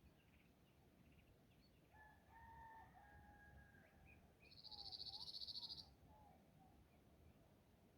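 A distant rooster crowing, one held call about two seconds in, faint against quiet countryside. Near the middle comes a short, high, rapidly pulsed buzzing trill that is louder than the crow.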